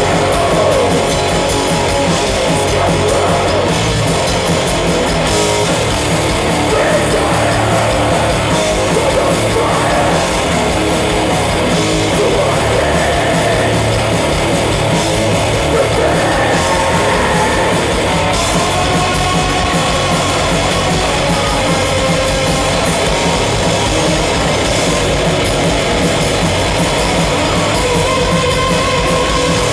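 Live set by a heavy metal and hardcore band at full volume: distorted electric guitar with drums, dense and unbroken.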